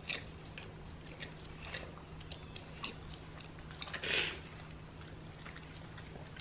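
A person chewing a mouthful of English-muffin breakfast sandwich, with soft wet mouth clicks and smacks throughout and a louder breath out about four seconds in.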